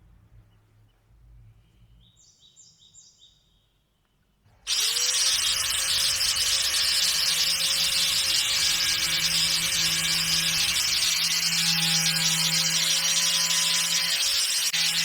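Near silence, then about a third of the way in an electric power tool switches on. Its pitch quickly rises and settles, and it runs steadily with a loud, hissing noise of working material.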